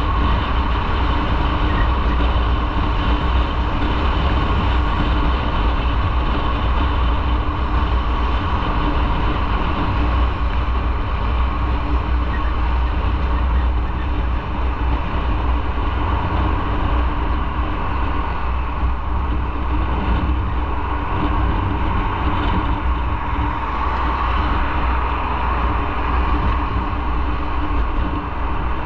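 Motorcycle on the move: steady engine, road and wind noise with a heavy low rumble.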